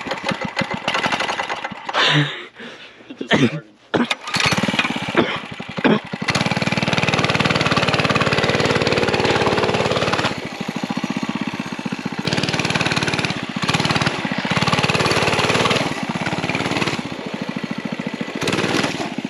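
Mini bike's small engine running under throttle. It is choppy with a couple of drop-outs in the first four seconds, then runs steadily with the revs rising and falling.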